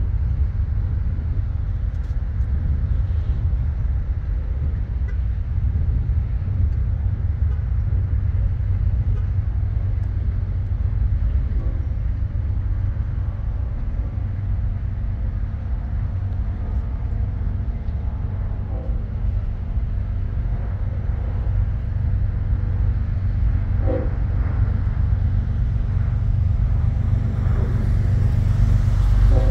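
Freight train cars rolling past over the rails with a steady low rumble. A few brief faint squeals come through, and the rumble grows louder near the end.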